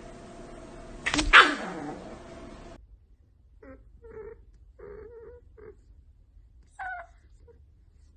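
A cat calling: one loud yowl that falls steeply in pitch about a second in, then several short, quieter calls and one higher call near the end.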